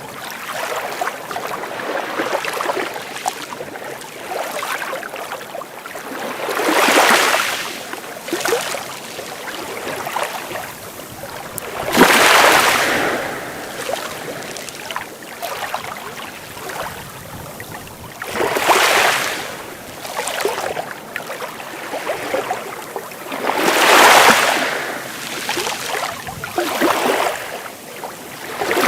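Sea waves breaking and washing in: a steady wash of surf that swells into four larger waves, each roughly five to six seconds after the last.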